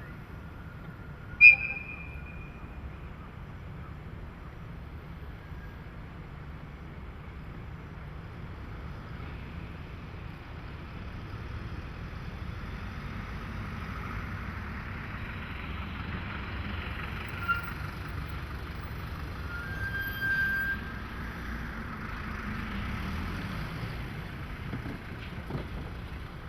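A DE10 diesel locomotive hauling tank cars, its low engine rumble growing louder over the middle of the stretch and easing near the end. About one and a half seconds in there is a short, sharp, high-pitched toot, the loudest sound, and a couple of brief high tones follow later.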